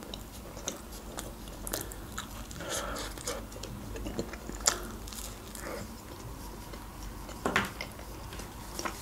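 A person biting and chewing pizza crust close to the microphone: scattered small crunches and mouth clicks, with a sharper click near the end.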